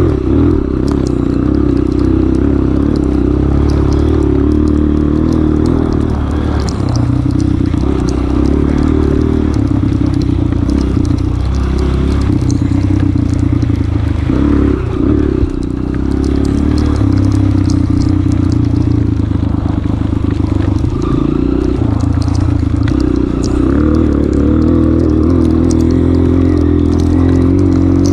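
Honda CRF230F's single-cylinder four-stroke engine running under changing throttle, its pitch rising and falling, easing off briefly about fifteen seconds in. Scattered sharp ticks and clatter run through it.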